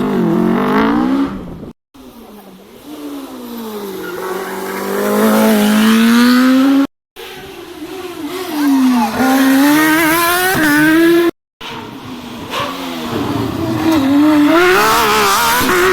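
Rally car engines at full throttle in short clips cut abruptly one to the next. In each the engine note climbs and grows louder as the car comes closer, with the revs dropping and rising again through gear changes.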